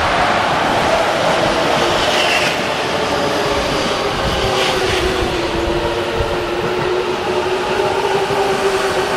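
JR East E233-1000 series electric train pulling into the station: steady rumble of the wheels on the rails, with a motor whine that sinks slightly in pitch as the train slows.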